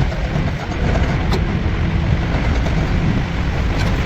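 A heavy-machinery diesel engine running steadily with a low rumble, with a couple of light clicks.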